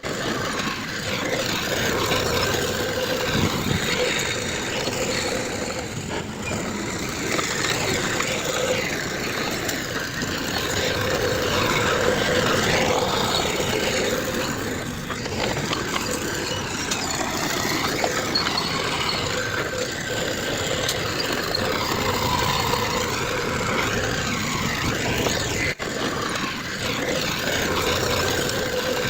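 Heavy diesel construction machinery running and working steadily, with a momentary dropout near the end.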